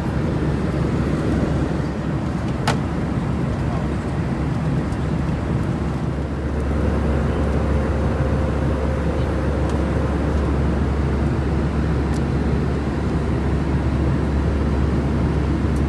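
Airbus A320 cabin noise in flight: steady jet-engine and airflow rumble heard from an over-wing seat. A low hum strengthens about six seconds in, and there is a single sharp click early on.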